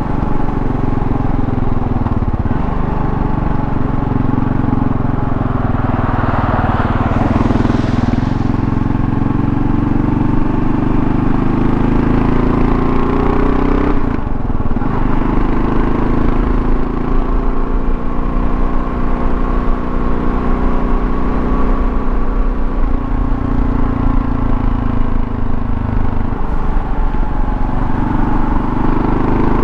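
2024 Kawasaki KLR650's single-cylinder engine running under way, its pitch rising and falling with the throttle and a brief dip about halfway through, over wind and road noise.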